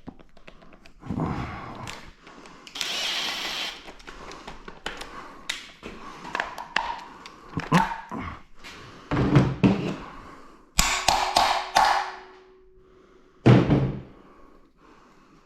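Tools knocking and clanking on a GM 2.4 EcoTec engine as its bolts are worked loose during a teardown. There is a run of irregular thunks and taps, a short hiss about three seconds in, and a few heavier metal knocks in the second half.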